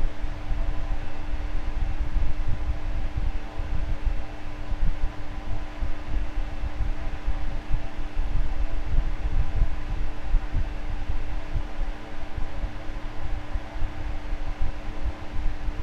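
Electric fan running steadily: a constant motor hum with a few steady tones over a heavy, fluttering low rumble of moving air.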